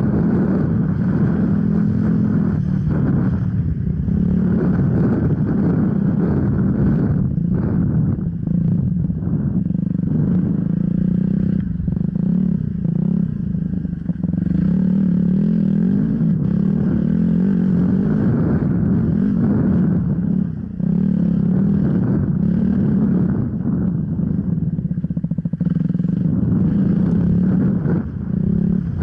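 Off-road enduro motorcycle engine running hard, its pitch rising and falling with the throttle, with short dips where the throttle is shut off.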